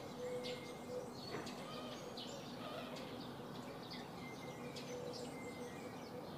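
Faint bird chirps, short and scattered, over a steady low background hiss.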